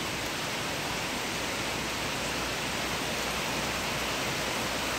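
Thunderstorm rain pouring steadily, an even hiss.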